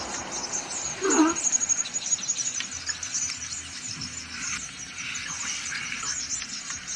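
Outdoor wildlife ambience: steady high-pitched chirping, with one short, lower animal call about a second in.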